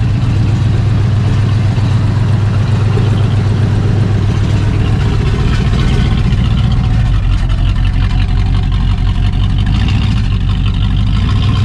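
Engine of a 1980 Jeep J10 crew cab project truck running steadily as the truck is tried in gear. The engine is not yet tuned and is fed from a makeshift paint-thinner-can fuel tank. Its deep low note shifts about seven seconds in.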